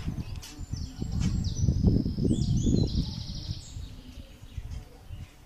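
Outdoor background noise: an irregular low rumble on the microphone, loudest in the first half, with a run of faint high-pitched chirps from small birds about two seconds in.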